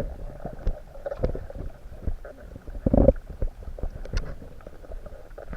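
Underwater sound picked up by a camera beneath the sea: irregular low rumbling and gurgling with scattered clicks and knocks, and a louder gurgling burst about three seconds in.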